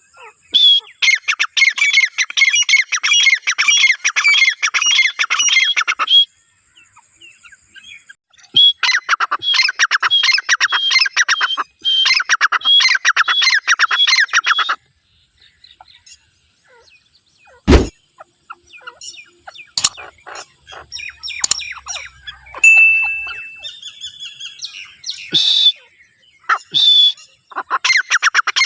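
Birds calling in long runs of rapid, shrill repeated notes, three runs of several seconds each with pauses between, then scattered single calls and a sharp click before the rapid calling starts again near the end.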